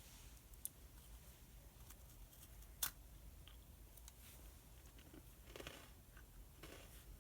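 Faint desk sounds of someone studying with pen and paper: a light click, then a sharper tap about three seconds in, and brief soft paper rustles near the end, over a low room hum.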